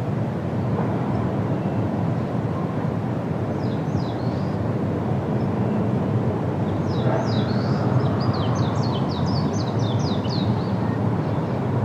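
Steady low wind noise through the forest, with a bird chirping high above it: a few quick notes about four seconds in, then a longer rapid run of short falling chirps in the second half.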